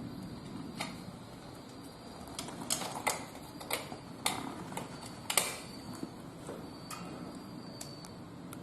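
Irregular light clicks and taps from small tools and parts being handled while preparing to solder a wire, the loudest about five and a half seconds in.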